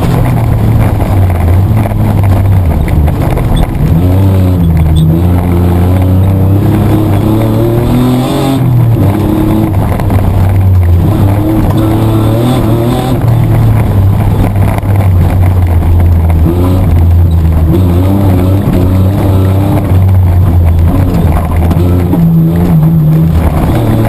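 Mitsubishi Triton ute's petrol engine working hard under racing load, heard inside the cabin, its revs climbing and falling back repeatedly.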